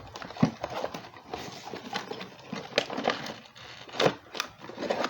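Firework canister shells and their packaging being handled: rustling and crinkling with a few sharp knocks, the loudest about four seconds in.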